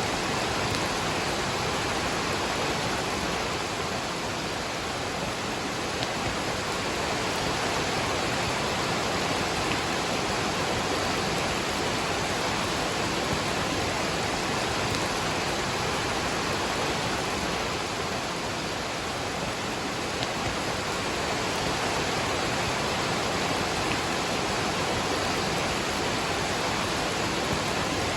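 Waterfall's steady rush of falling water, mixed with rain, an even unbroken noise.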